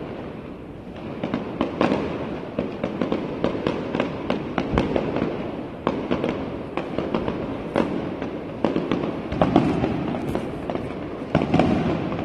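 Fireworks going off, a rapid string of bangs and crackles over a continuous rumble, starting about a second in.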